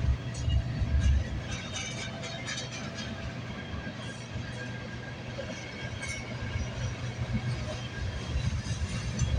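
Freight train cars rolling past on the rails: a steady low rumble with scattered clicks and knocks from the wheels.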